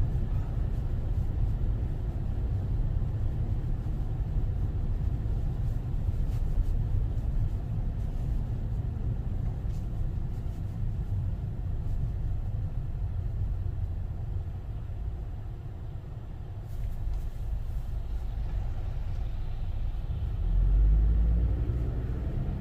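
A car driving: a steady low rumble of engine and tyre noise that eases briefly about two-thirds of the way through, then grows louder near the end.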